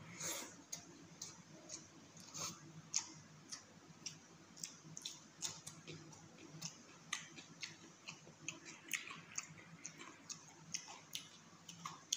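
Close-up mouth sounds of a person eating rice and chicken curry by hand: chewing with frequent short, irregular wet smacks and clicks, several a second.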